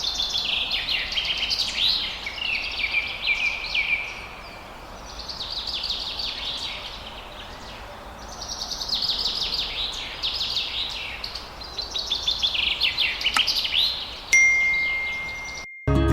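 Birds twittering in several phrases of rapid, high chirps. Near the end a single steady high tone holds for about a second, then cuts off.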